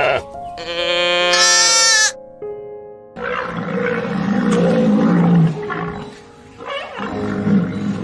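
Animal calls over background music: a drawn-out call that climbs steeply in pitch near its end, then a low, rough, roar-like call lasting a couple of seconds, and a shorter one near the end.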